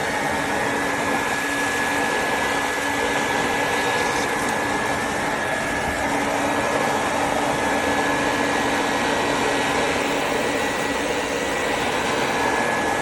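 Quantum X upright water-filter vacuum running steadily: a loud even rush of air with a constant high motor whine.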